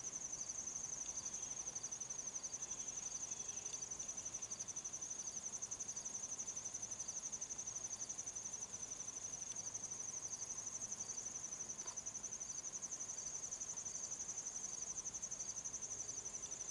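Insects trilling: a steady, high, fast-pulsing trill that goes on without a break, with another insect chirping faintly at an even pace of about once a second.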